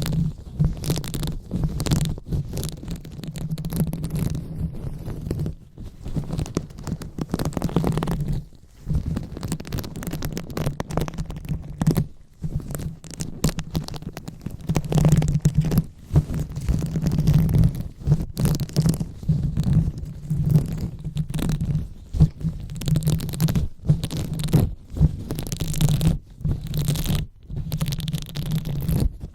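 Close-miked rubbing and scratching right on the microphone: an uneven rustling with a low rumble and many small sharp scrapes. It drops out briefly a few times.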